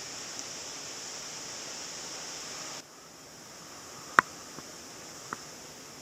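Steady outdoor background hiss that drops suddenly a little before halfway and then builds back. One sharp click comes about four seconds in, with two fainter clicks after it.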